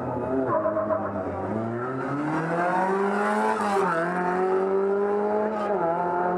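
Sports car accelerating hard from a standing start, its engine pitch climbing and dropping sharply twice as it changes up through the gears.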